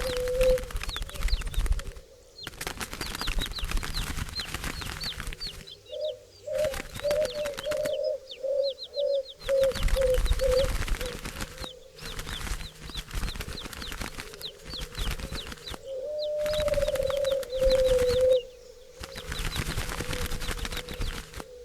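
Doves cooing in low, wavering calls, over busy wing flapping and rustling, with small birds chirping high above. The sound drops out abruptly several times between stretches.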